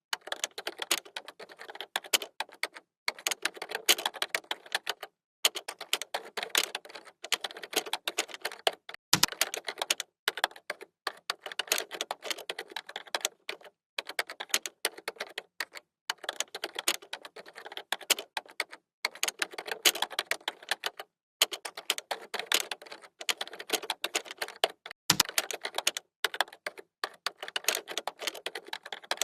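Computer keyboard typing: rapid key clicks in bursts of a second or two with brief pauses between, and an occasional heavier keystroke, perhaps the space bar or enter key.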